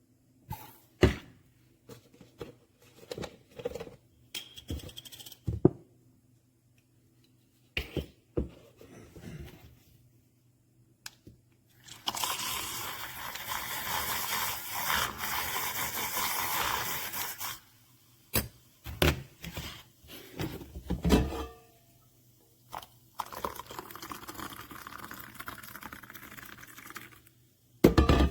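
Scattered knocks and clicks of objects being handled, with a steady rushing noise lasting about five seconds near the middle and a fainter stretch of it later on.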